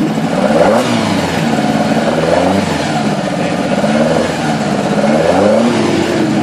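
Mk1 Ford Escort race car's engine revved repeatedly while standing still, the pitch rising and falling with each blip of the throttle.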